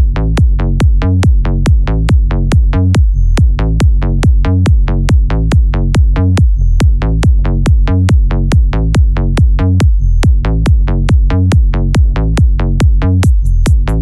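Progressive psytrance track: a steady, fast electronic kick drum and pulsing bass in an even, unbroken rhythm.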